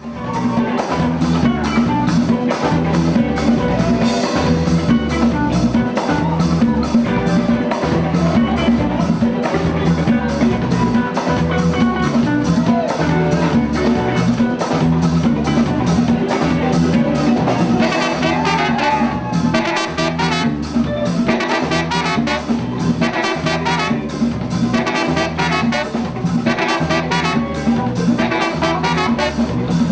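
Live Latin-groove band playing: a driving drum and percussion rhythm with brass, continuous and loud.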